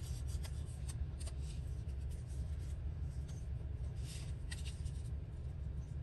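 Paper scraps and stickers being handled on a work surface: light rustles, scrapes and small taps, some clustered about four seconds in, over a steady low hum.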